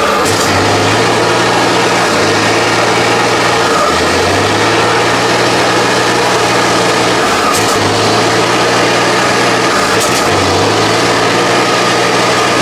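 Tatra 8x8 trial truck's engine running hard and steadily, its revs dipping and picking up again three times.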